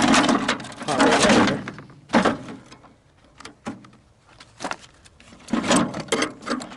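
Metal parts of a microwave oven being handled and pulled apart: a scraping rattle for about the first second and a half, then scattered clunks and clicks.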